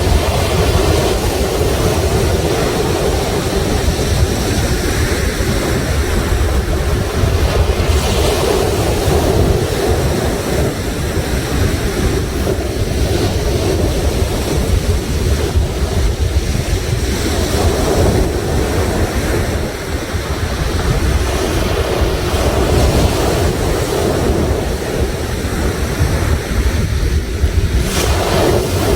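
Sea waves breaking on the shore: a continuous surf roar that swells and eases as successive waves come in.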